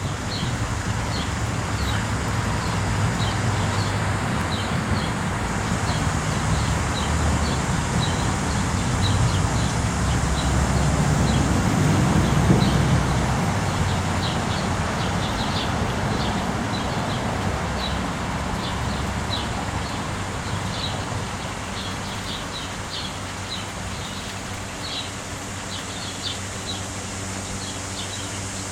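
Birds chirping in short, high, repeated chirps over a steady rushing background, with a low rumble that swells to its loudest about halfway through and then fades.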